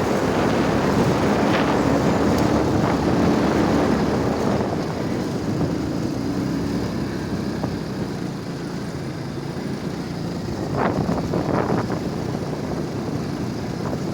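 Motorcycle engine running while riding, with wind on the microphone; louder in the first half, easing off after about eight seconds, with a few brief sharper sounds near the end.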